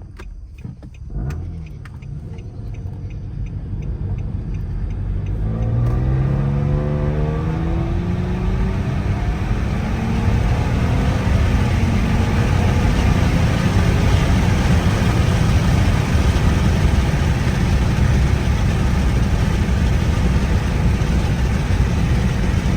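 Car accelerating, its engine note rising for several seconds, then settling into a loud, steady low drone with road noise while cruising. The exhaust was damaged by running over a dead deer, and the owner suspects the exhaust system is causing the odd sound.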